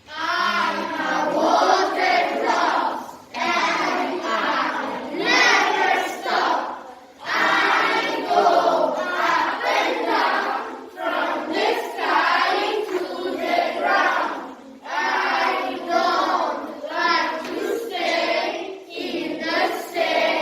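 A group of children singing a song together as a choir, in phrases of a few seconds each with short breaks between.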